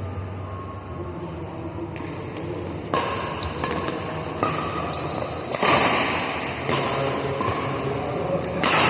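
Badminton rally: rackets strike the shuttlecock in a series of sharp hits about a second apart, starting about two seconds in.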